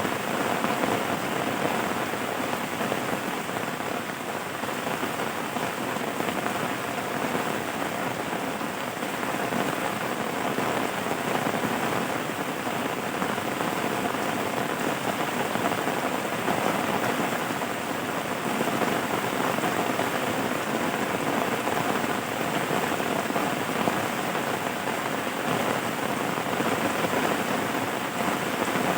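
Steady rain falling, a continuous even hiss of drops with no change in strength.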